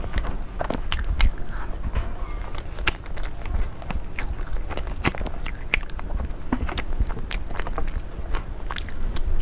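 Close-miked eating sounds: irregular crisp bites and clicks with chewing, over a steady low rumble.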